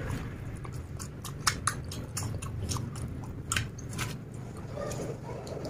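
A person chewing a mouthful of chicken biryani, with a string of short, irregular smacking clicks from the mouth.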